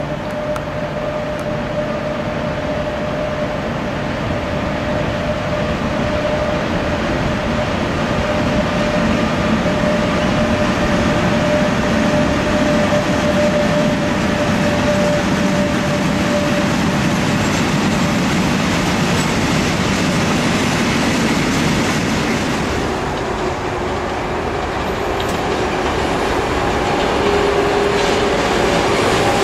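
Freight train hauled by an HGK Class 185 electric locomotive passing close by, its tank wagons rolling steadily over the rails, with a steady high tone over the running noise for about the first half. About 23 seconds in the sound dips and changes to another electric-hauled freight train rolling by.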